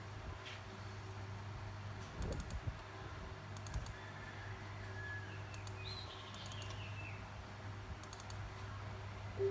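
Scattered small clicks and taps, a few at a time, over a steady low electrical hum.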